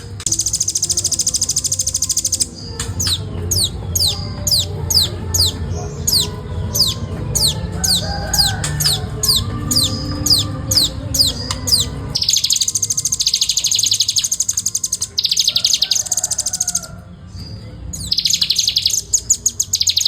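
Velvet-fronted nuthatch calling: fast, dense high rattling trills, broken in the middle by a run of about twenty high notes, each sliding downward, at about two a second. The rattling trills then return, with a brief pause near the end.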